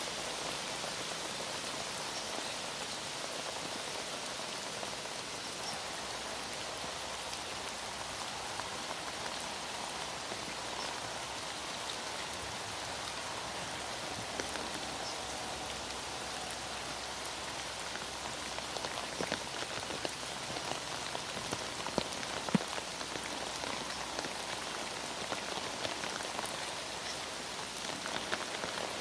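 Heavy rain falling steadily, an even hiss of drops, with a few sharper ticks of single drops about two-thirds of the way through.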